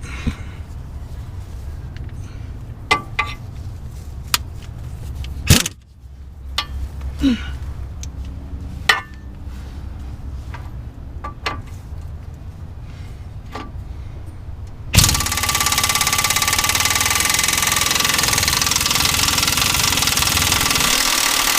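Scattered metal clanks and knocks of tools on a Jeep's control-arm bracket over a low rumble, then a power tool runs loudly and steadily for about seven seconds.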